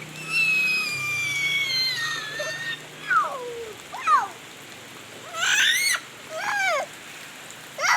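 Steady rain falling, with a young child's high-pitched squeals: one long squeal that slowly falls in pitch, then several short cries that slide up and down.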